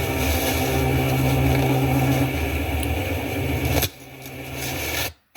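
A motor vehicle engine running steadily as a low drone. It drops away suddenly about four seconds in, swells back up more quietly, and then cuts to silence.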